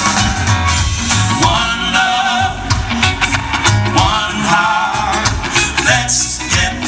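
Live country-rock band playing with a Caribbean, Latin-tinged groove: drums, bass and guitars, with a melodic line that sounds like singing over the top.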